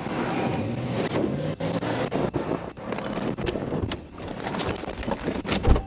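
A vehicle being driven hard in a pursuit: engine and road noise with wind buffeting the microphone, and a sharp knock near the end.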